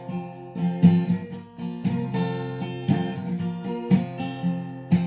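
Acoustic guitar strumming chords, the instrumental intro of a song.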